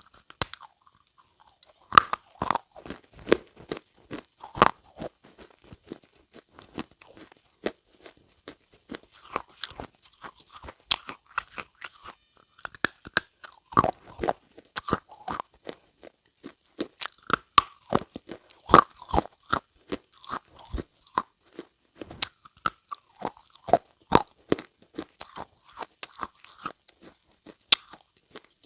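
Irregular crunching and crackling of something brittle, several sharp cracks a second.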